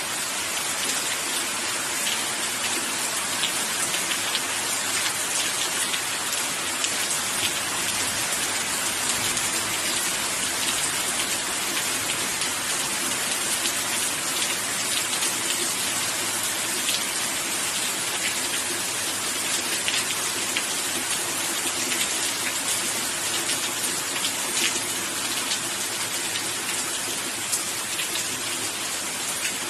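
Steady rain falling, a dense even hiss with many small sharp drop ticks on a hard surface.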